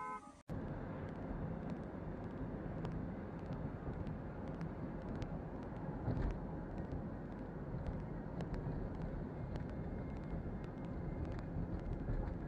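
Car on the road: steady engine and tyre noise picked up by a dash camera, with a few faint ticks.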